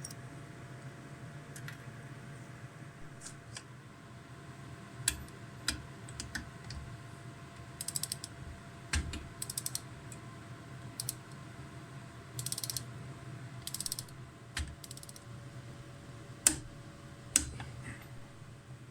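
Hand tools working on motorcycle engine parts during assembly: scattered sharp metal clicks and knocks, with several short bursts of rapid clicking, over a steady low hum.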